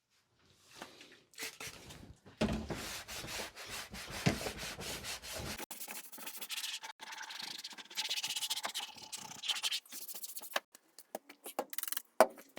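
Rubbing and scraping with many sharp clicks and knocks, with a low rumble under the first half.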